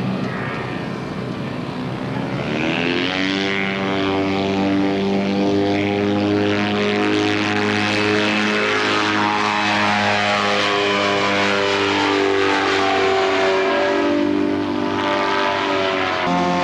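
Kolb ultralight aircraft's engine and propeller: the engine revs up over a couple of seconds, then runs steadily at high power.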